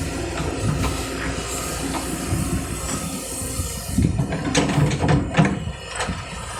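Kobelco excavator working, its diesel engine running steadily with metallic clanks and knocks from the machine, a cluster of knocks about four to five and a half seconds in.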